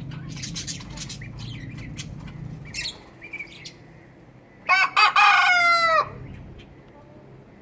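A rooster crows once about five seconds in: a few short notes, then a long held note that drops away at the end. Small birds chirp in the first few seconds.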